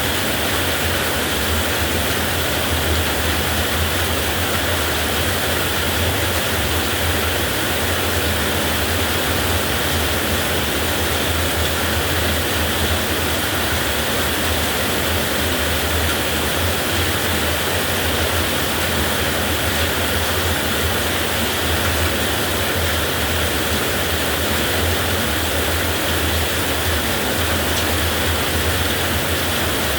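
Heavy rain falling steadily, an even, unbroken hiss with no thunderclap.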